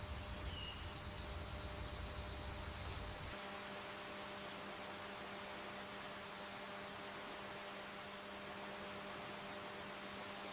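Faint, steady jungle ambience: an even, high insect drone over hiss, with a low steady hum. A low rumble drops out about three seconds in.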